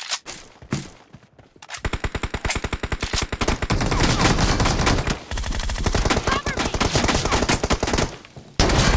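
Video-game automatic gunfire: rapid strings of shots that start a couple of seconds in and run on, with short breaks about five and eight seconds in.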